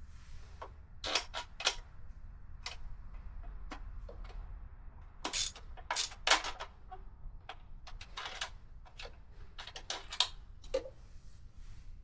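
Hand tools working on a motorcycle's fasteners: irregular metallic clicks and clinks, with a few louder knocks about a second in and again around five to six seconds in.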